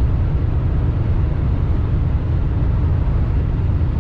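Steady low rumble of a semi truck cruising at highway speed, heard from inside the cab: diesel engine, tyres and wind noise blended together, with no distinct events.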